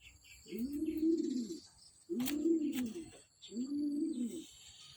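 Show King pigeon cooing: three drawn-out coos, each about a second long, rising and then falling in pitch.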